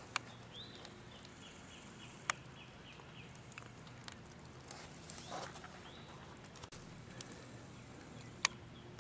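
A songbird sings faintly: a run of quick, high, repeated slurred notes for about three seconds, and one more high note a few seconds later. A few sharp isolated clicks are heard, the loudest near the end.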